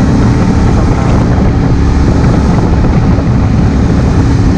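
2016 Honda Africa Twin CRF1000L's 998 cc parallel-twin engine running steadily while riding, mixed with the rush of wind on the GoPro's microphone.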